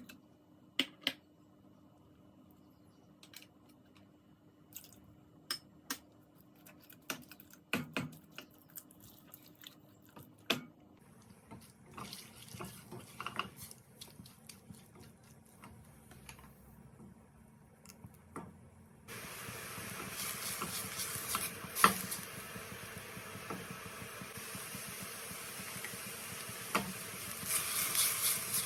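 Bowls and utensils clinking and knocking in a kitchen, a few sharp knocks at a time. About two-thirds of the way through, a steady, much louder hiss starts suddenly and carries on, with more clinks over it.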